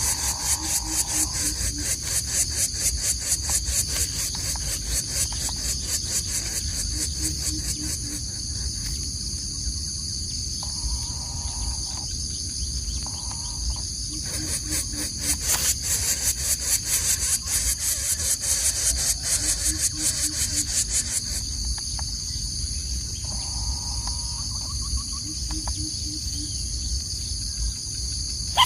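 Dense insect chorus of high, shrill buzzing that pulses rapidly, swelling in the first third and again in the middle. Short runs of faint low notes repeat about every six seconds beneath it.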